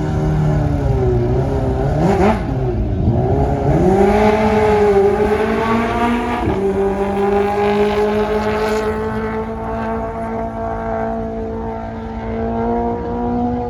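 Kawasaki Ninja H2R's supercharged inline-four engine revving up and down a few times, then holding a steady note that climbs slowly from about six seconds in.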